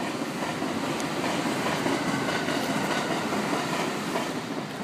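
Thunderbird limited express electric train passing at speed, a steady rush of wheel and rail noise with a few sharp clicks, swelling and then fading away near the end.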